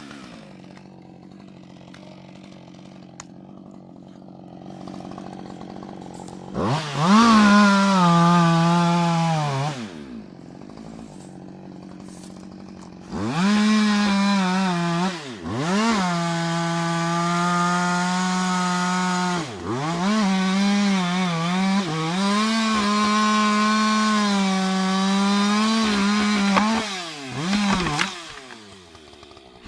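Husqvarna 560 XP two-stroke chainsaw idling, then revved into the wood in four or five cutting bursts. The engine pitch sags under load during each cut and drops back to idle between them.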